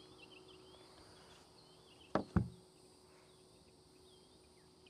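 Two sharp knocks in quick succession about two seconds in, over a faint outdoor background of small birds chirping and a steady insect hum.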